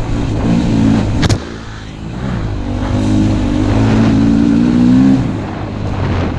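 KTM 250 EXC-F's single-cylinder four-stroke engine running under the rider, the throttle easing off about a second and a half in, opening up again, then easing off near the end. A single sharp knock sounds just before the first easing off.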